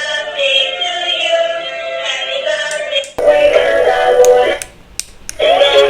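Rechargeable talking and dancing cactus toy playing a song through its small speaker: electronic music with a high-pitched sung voice. It breaks off briefly about three seconds in and again near the end.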